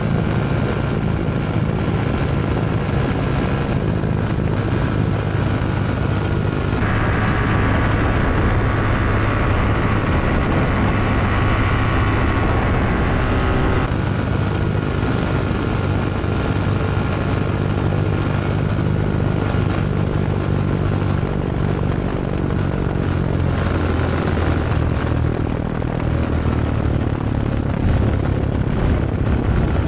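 SkyPup ultralight aircraft's engine and propeller running steadily with a constant drone, with wind noise over it.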